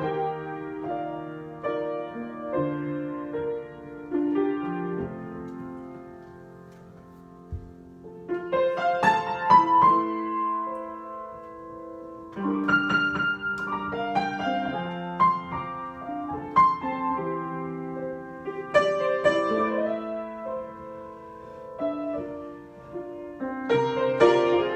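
Solo piano being improvised: held chords in the middle register, broken four times by louder, brighter flourishes, with a softer held stretch about a quarter of the way in.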